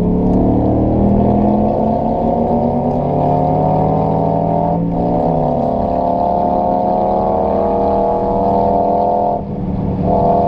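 Audi RS4 B7's 4.2-litre V8, its rear silencers bypassed, pulling under acceleration with the pitch rising steadily. The note breaks briefly about halfway and again near the end, as with gear changes.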